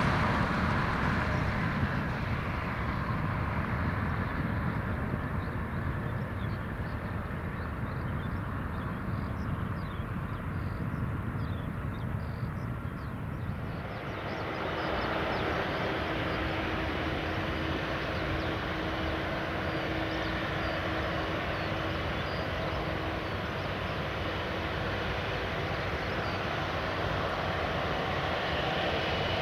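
Boeing 787-9 Dreamliner jet engines during a departure, a steady rumble that eases off through the first half. About halfway through the sound changes abruptly to a fuller, steady engine noise with a constant hum.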